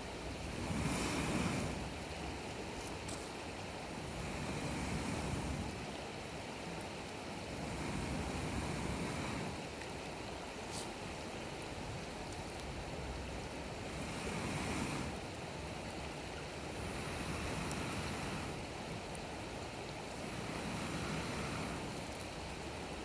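A steady rushing noise that swells and fades every three to four seconds, with a few faint crackles from the campfire.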